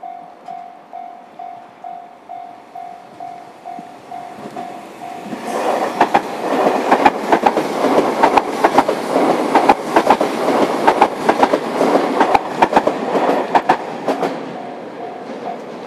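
A JR Kyushu 305 series electric train passing, its wheels clacking over rail joints in quick clusters for about nine seconds before the sound fades. Before it arrives, and faintly again as it goes, a level-crossing warning bell dings about twice a second.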